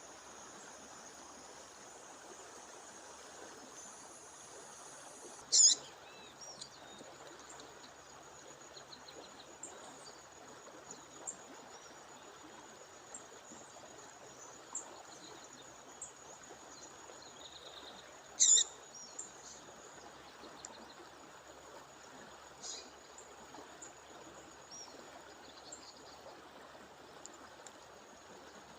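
A female songbird giving short, sharp, high calls over the steady rush of a waterfall: two loud calls about five seconds in and about eighteen seconds in, with fainter chirps between. A steady high-pitched whine runs underneath.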